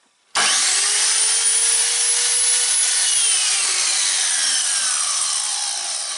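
Silverline 1400 W mitre saw running with no load: it starts suddenly and its whine rises in pitch as the blade spins up, holds briefly, then falls away steadily as the saw is switched off and the blade coasts down.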